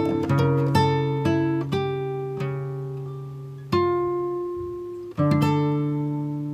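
Background music: a slow acoustic guitar piece, single notes and chords plucked and left to ring out.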